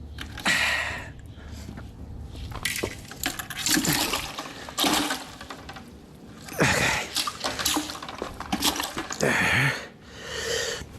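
Water splashing and sloshing in several separate bursts.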